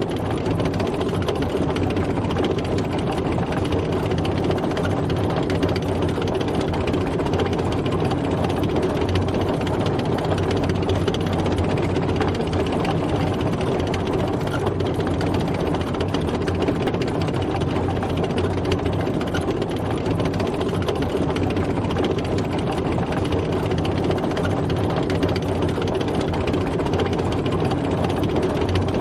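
Tank on the move: its heavy engine runs steadily under a continuous fast mechanical clatter, with no change in pace.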